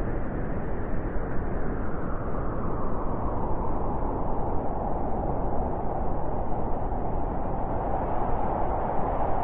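Blizzard wind: a steady rushing noise with a howling tone that grows somewhat stronger in the second half.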